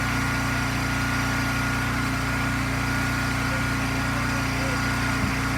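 Eastonmade firewood processor's gas engine running steadily at a constant pitch, with a light knock near the end.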